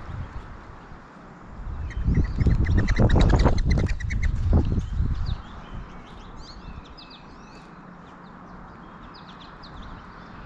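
Wild birds at close range: loud rustling and thumping for a few seconds with a quick run of repeated calls, then scattered short, sharp, falling chip notes.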